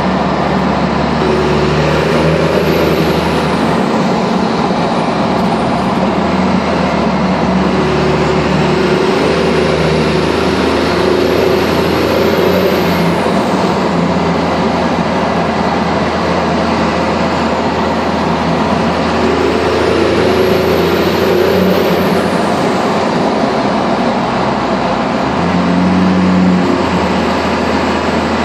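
1997 Dodge Ram 2500's 12-valve Cummins inline-six turbo diesel running loud and steady through a 5-inch exhaust in a road tunnel. A faint high whistle rises and falls about three times.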